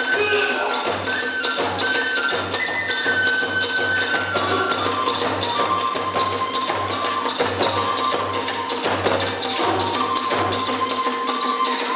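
Hiroshima kagura accompaniment: a bamboo flute melody of held notes stepping up and down, over a steady beat of the big drum about twice a second, with sharp metallic strikes of small hand cymbals. The drum beat stops near the end.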